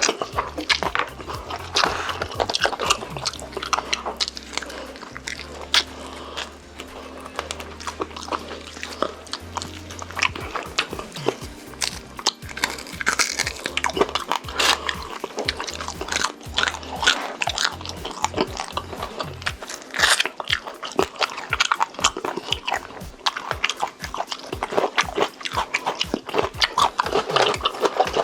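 Close-miked biting and chewing of crunchy food: many irregular crisp crunches and wet chewing sounds, as in an ASMR eating video.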